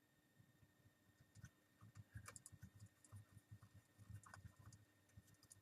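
Faint, irregular clicking and light handling noise from a small screwdriver driving the last small screw into a laptop's screen mount.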